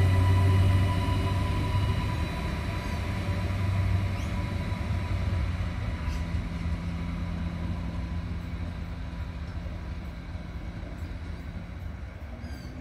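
Passenger train moving away down the line: a low rumble with a steady whine above it, growing steadily quieter as it recedes.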